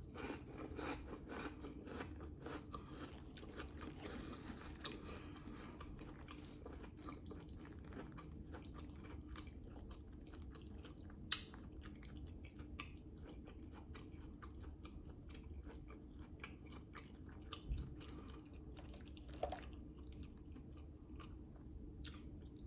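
Close-up mouth sounds of a person chewing a sausage hot dog topped with grinder salad: wet smacks, soft crunches and small clicks, busiest in the first few seconds, then slower and more scattered, with one sharper click about halfway through.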